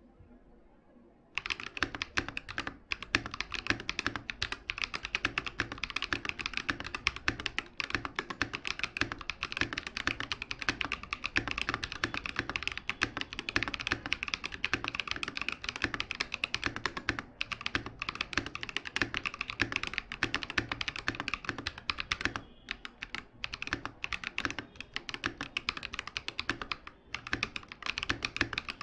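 Fast, continuous typing on a KM84+ mechanical keyboard: a dense run of keystroke clicks that starts about a second and a half in, with a few short pauses.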